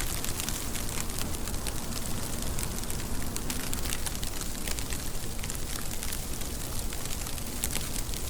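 Steady rain: an even hiss of falling rain thick with sharp clicks of drops hitting a surface.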